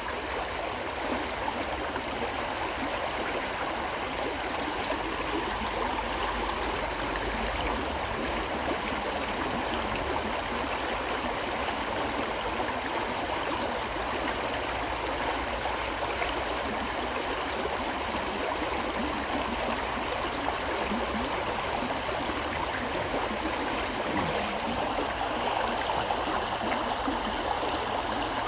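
Gentle river flowing steadily, an even rush and burble of running water.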